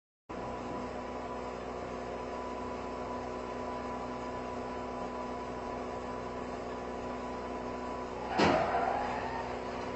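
Steady engine and road hum heard from inside a car through a dash cam, with several steady tones. About eight seconds in, a sudden loud sound slides down in pitch, then levels off and fades over about a second.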